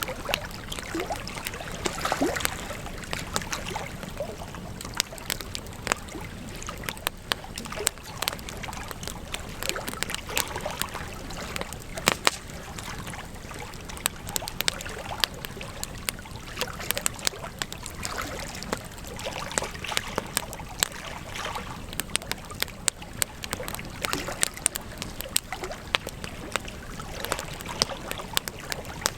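Campfire of burning wood crackling and popping, with many sharp irregular snaps over a steady hiss.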